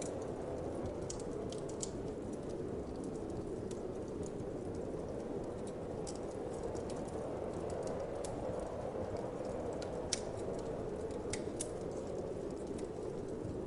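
Wood fire crackling, with irregular sharp pops scattered through it, the loudest about ten seconds in, over a steady low whoosh of winter wind.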